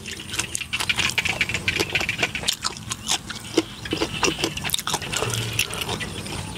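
Close-up chewing of crunchy food with the mouth closed: a rapid, irregular string of crisp crunches and wet mouth sounds.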